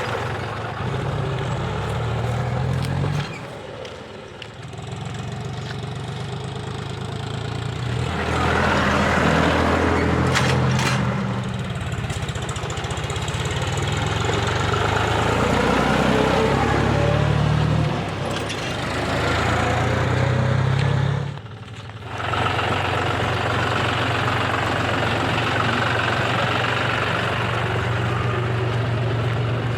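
John Deere 5050D tractor's diesel engine running, its low note rising and falling. It drops away briefly about three seconds in and again for a moment about three-quarters of the way through, then runs on steadily.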